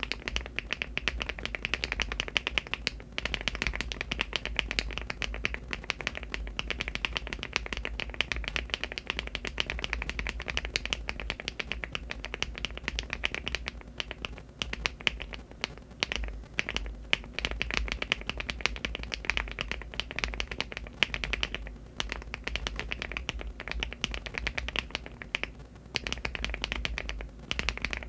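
Fast, continuous typing on a LEOBOG Hi75 aluminium mechanical keyboard fitted with HMX Garnet linear switches (50 g) and Cherry-profile keycaps: a dense stream of keystroke clacks with a few brief lulls.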